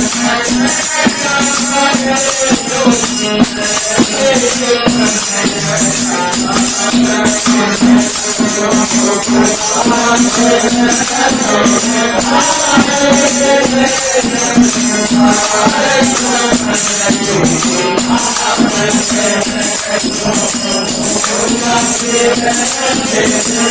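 Devotional bhajan music: a voice sings a bending melody over a steady drone, with jingling, rattling hand percussion throughout.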